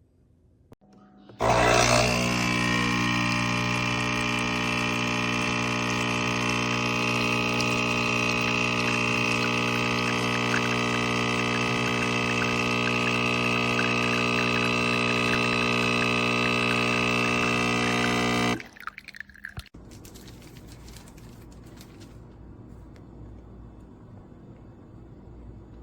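Nespresso Inissia pod machine's pump running steadily with a loud buzzing hum as it brews a coffee, with liquid pouring into the cup. It stops abruptly after about seventeen seconds, leaving a few faint clicks and a low hum.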